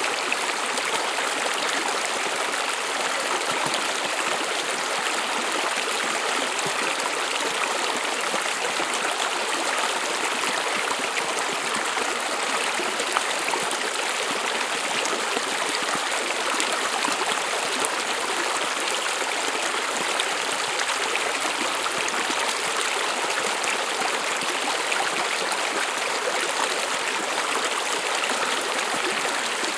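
A small stream of water running over stones, a steady rushing and babbling that does not change.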